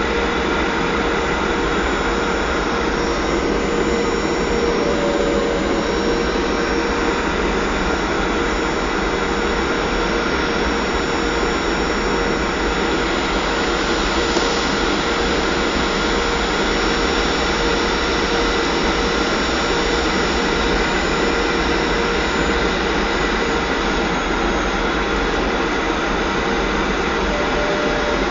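Boeing 737-500 in flight, its CFM56 jet engines and the airflow making a steady, even noise with a faint constant hum, as heard from inside the cabin.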